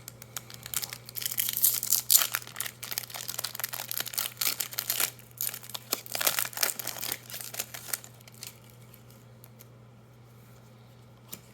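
Plastic foil wrapper of a Magic: The Gathering booster pack being torn open and crinkled, with many quick crackles for about eight seconds. Then the crinkling stops, leaving a faint steady hum and a single click near the end.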